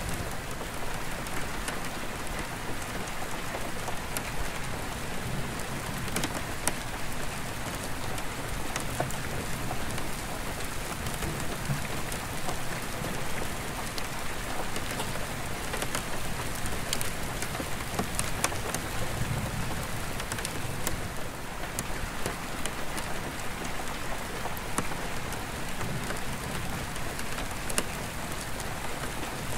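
Steady rain on an attic roof skylight, with single drops ticking sharply on the glass. A low, distant thunder rumble swells and fades several times underneath.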